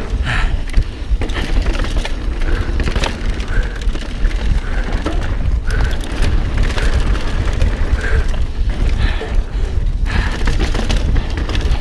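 Mountain bike riding fast over a rough dirt trail, heard on a bike- or helmet-mounted camera. Steady wind and ground rumble run throughout, with frequent knocks and rattles from the bike as it hits bumps.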